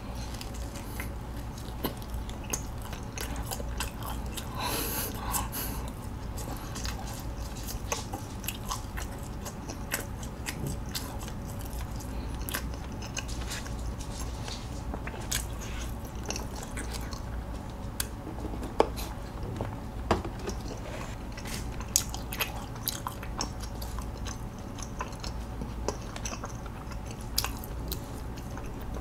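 Close-miked chewing of a mouthful of sausage pretzel, wet mouth sounds with many scattered small clicks.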